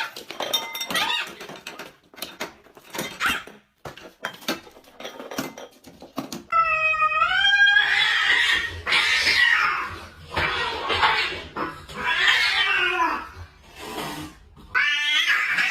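A cat meowing and yowling in a series of cries. One long pitched cry rises and falls about halfway through, harsher cries follow it, and another cry comes near the end. Scattered clicks and knocks fill the first few seconds.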